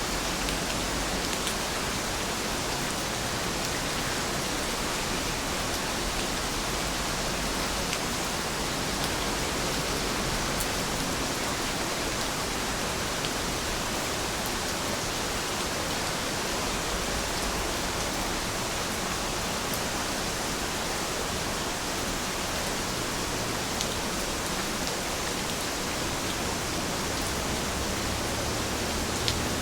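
Steady, even rainfall: a dense hiss of many drops with occasional faint distinct drop ticks.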